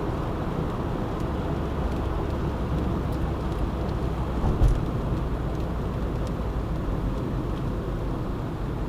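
Steady road noise of a car driving on a rain-wet road: low rumble and tyre hiss, with a brief low thump about halfway through.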